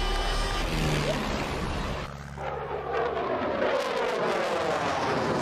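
Music tails off, then about two seconds in an aircraft passes close by, its engine note falling steadily in pitch as it goes past.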